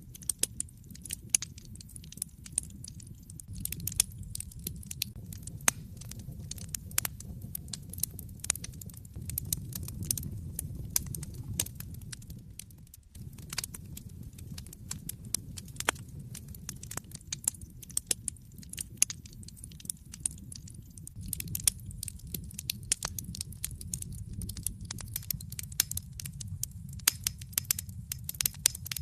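Wood fire in a fireplace crackling, with many sharp pops and snaps over a steady low rumble of the flames. The sound dips briefly just under halfway through.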